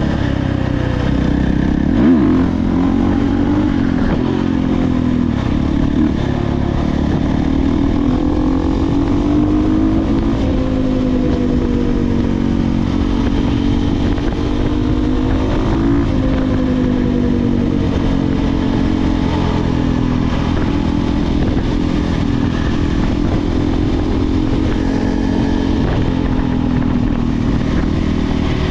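Dirt bike engine running while being ridden, its pitch rising and falling as the throttle opens and closes. A sharp thump comes about two seconds in.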